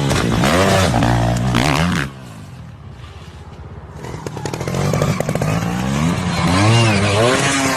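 Dirt bike engine revving up and down, cutting off abruptly about two seconds in, then revving again from about four seconds in.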